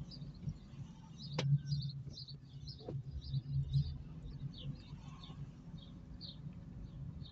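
Small birds chirping over and over in quick, irregular notes, heard over the low hum of an Opel Meriva driving slowly. Two light knocks come about a second and a half apart.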